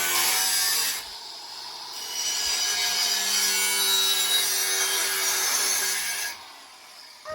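A saw cutting through wood in two passes: one ends about a second in, and a second runs from about two seconds in and stops abruptly near the end.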